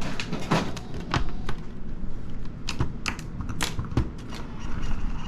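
Irregular sharp clicks and light knocks, about a dozen, like things being tapped and handled on a shop counter, over a steady low background hum.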